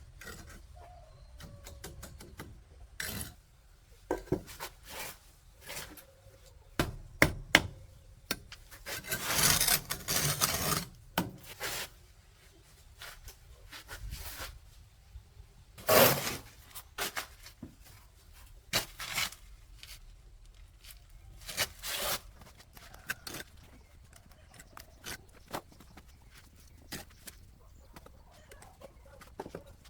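Irregular scraping, rubbing and knocking of objects being handled by hand. A longer rasping scrape comes about nine to eleven seconds in, and a sharp knock comes around sixteen seconds.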